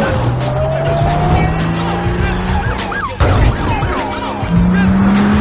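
Car-chase movie soundtrack: car engines revving hard, their pitch climbing under acceleration, with short tire squeals, over film music. There is a sudden change about three seconds in, and a second engine climbs in pitch near the end.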